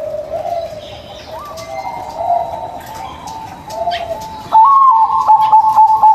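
Zebra doves (perkutut) cooing: fainter, wavering coos at first, then about four and a half seconds in a loud, steady trilling coo broken into quick, even pulses.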